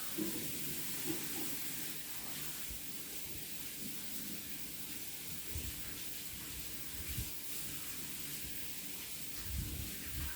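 Kitchen tap running steadily, water hissing into the sink, with a few soft knocks of handling.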